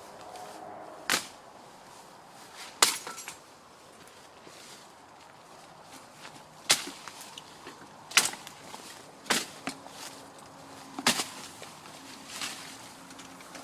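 A series of about seven sharp cracks or snaps, spaced irregularly one to two seconds apart.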